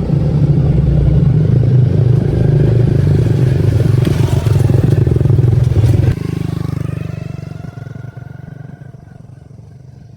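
Motorcycle engine running steadily, dropping off suddenly about six seconds in, then fading away.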